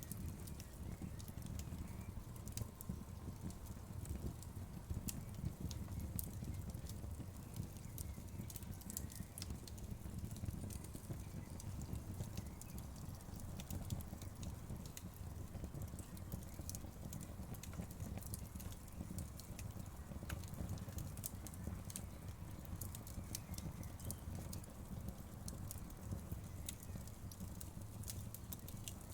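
Wood fire crackling: frequent irregular sharp pops and snaps over a low, steady rumble of the flames.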